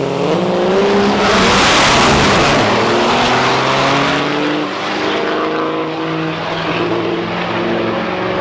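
Turbo-diesel drag trucks launching and racing down the strip. A high whistle rises in the first second or so, and the noise is loudest a second or two in. The engine pitch then climbs again and again as the trucks pull away.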